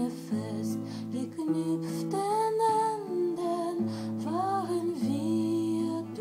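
Music: a woman singing long, wavering held notes of a slow romance melody over sustained chords and guitar accompaniment.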